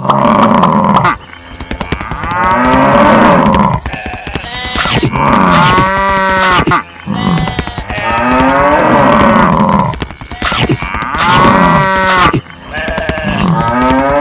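Repeated long mooing calls, about five in a row, each lasting a second or two.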